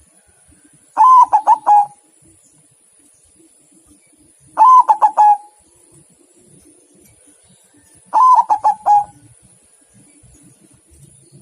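Zebra dove (perkutut) singing: three phrases of quick, stuttering coos, each just under a second long and spaced about three and a half seconds apart.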